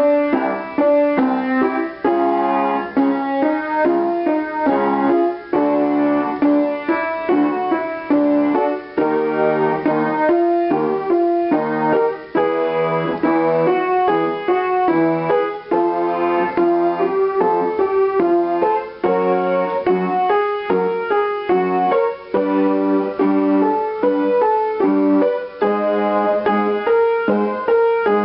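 Piano keyboard playing a vocal warm-up exercise: short runs of notes stepping up and down, repeated over and over without a break.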